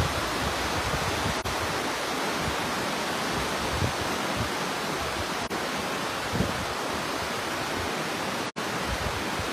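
Swollen river in flood, a steady, dense rush of fast muddy water. The sound cuts out for an instant a few times, most deeply near the end.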